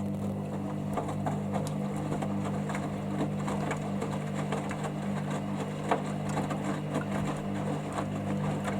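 Hoover Dynamic Next washing machine's drum motor turning the drum during the wash-to-rinse stage: a steady hum, with scattered clicks and soft knocks of the wet load tumbling.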